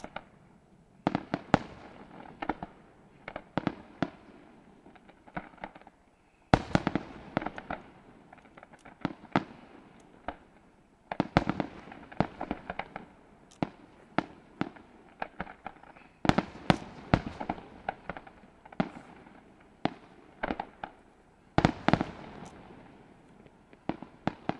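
Aerial fireworks display: a rapid, irregular series of shell bursts going off in volleys, each bang followed by crackling and echo, with the densest volleys near the end.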